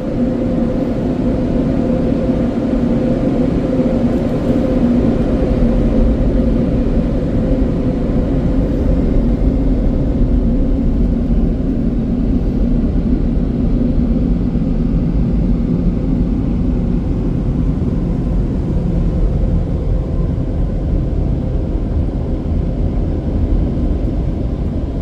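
Car wash air dryers blowing at the end of a touchless automatic wash: a loud, steady roar of rushing air with a constant hum.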